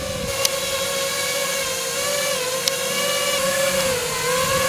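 Small model-aircraft engine running at high revs, its whine dipping slightly in pitch and recovering twice, with two brief sharp clicks.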